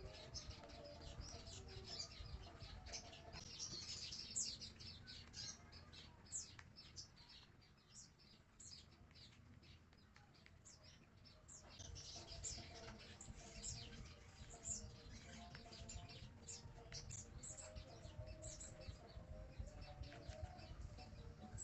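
Small birds chirping, many short high chirps in quick succession, fainter for a few seconds near the middle, heard faintly over a low background hum.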